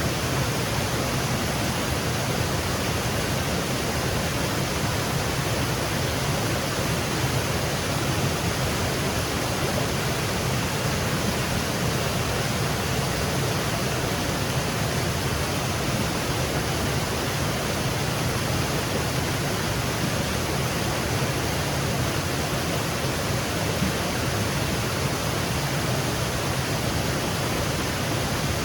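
Wooded waterfall: a steady, unbroken rush of water cascading over rocks.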